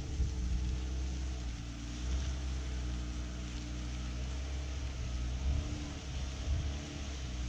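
A vehicle engine running at low speed, a steady low rumble whose pitch shifts slightly now and then.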